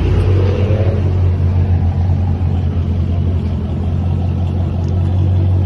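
Dodge Charger Scat Pack's 392 Hemi V8 running through an MBRP Street cat-back exhaust: a loud, steady deep rumble, with a slight rise in pitch in the first second.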